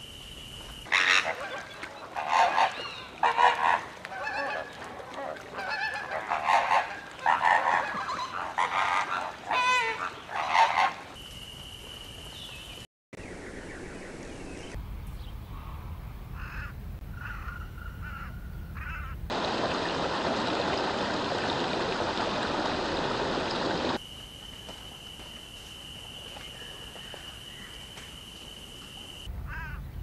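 Bird calls: a run of loud, separate calls over the first ten seconds or so, then quieter calls, then a few seconds of even hiss, and a steady high-pitched tone near the end.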